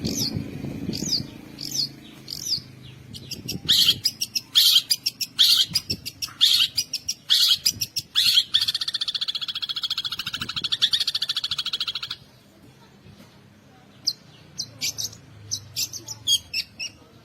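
Long-tailed shrike (cendet) singing a mimicking song. It opens with sharp chirps and harsh chattering notes, then a dense buzzing trill for about four seconds, then quick high chirps near the end.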